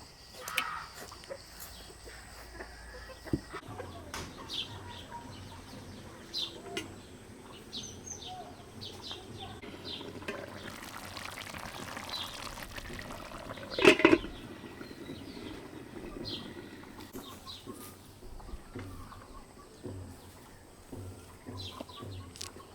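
Small birds chirping with farmyard chickens about, a few seconds of liquid-like rushing noise in the middle, and one loud knock about fourteen seconds in.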